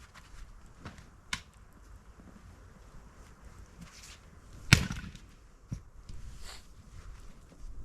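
Firewood being split: a few light wooden knocks, then one loud, sharp strike about five seconds in.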